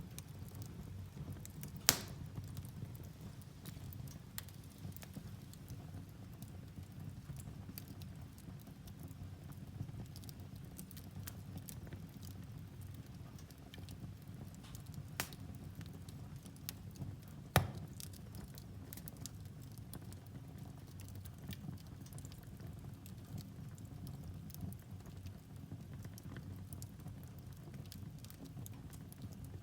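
Wood fire burning in a fireplace: a steady low rumble of flames with scattered crackles from the logs and two loud sharp pops, about two seconds in and near the middle.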